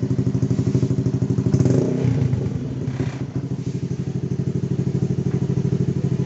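Motorcycle engine idling through an aftermarket racing exhaust with a steady pulsing beat, with a short blip of the throttle about one and a half seconds in.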